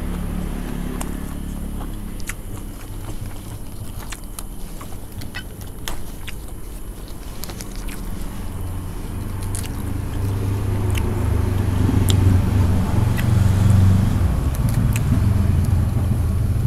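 Close-up chewing of crispy fried spring rolls, with many small crunches and crackles. A low rumble swells in the second half and becomes the loudest sound.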